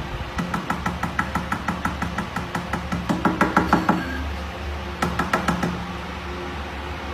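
Rapid, even knocking, about six knocks a second, for about three and a half seconds, then a shorter run of knocks about five seconds in, over a steady low hum.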